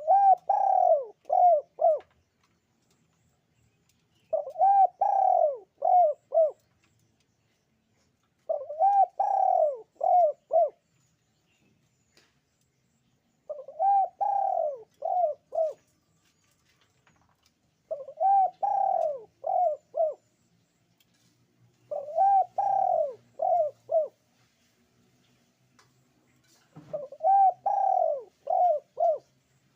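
Puter pelung dove cooing: a repeated phrase of one longer coo followed by three short ones, given seven times at intervals of about four seconds.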